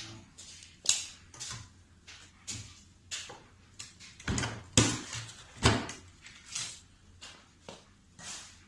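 Packing material being pulled off and handled around a new cordless miter saw: irregular rustles, scrapes and knocks, the loudest about four and a half and nearly six seconds in.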